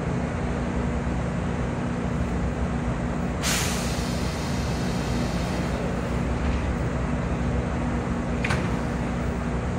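Kintetsu electric train standing at an underground platform, its equipment giving a steady hum with a constant low tone. About three and a half seconds in there is a loud hiss of released compressed air that fades over a second, and a shorter sharp hiss comes near the end.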